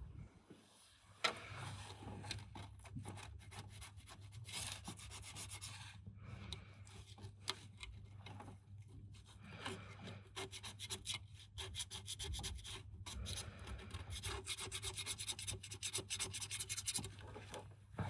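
Rapid back-and-forth abrasive rubbing strokes on a hard surface, in spells with short pauses, over a low steady hum.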